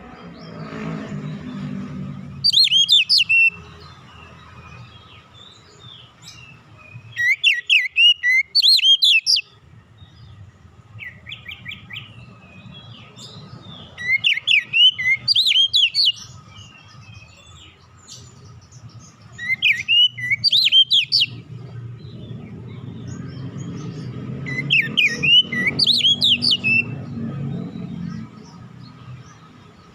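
Oriental magpie-robin (kacer) singing in five short phrases of rapid, high chirps and whistles, about every five seconds. Under the song run a low rumble and a faint steady hum.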